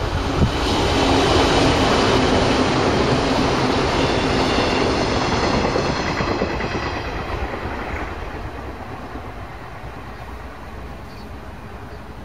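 JNR 485 series electric train running past on the line, loudest in the first few seconds, then fading steadily as it moves away.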